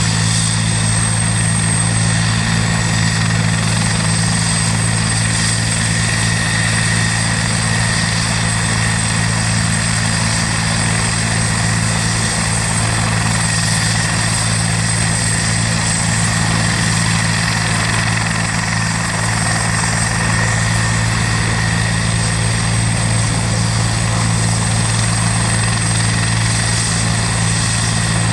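Rescue helicopter running steadily: a loud, even low drone with a steady high-pitched whine over it.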